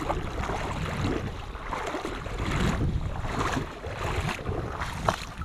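Wind rumbling on the microphone by the water, with water lapping and a few light knocks from handling.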